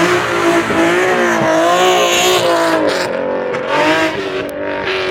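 A car engine held at high revs, its pitch wavering up and down over several seconds, with a hiss of noise under it.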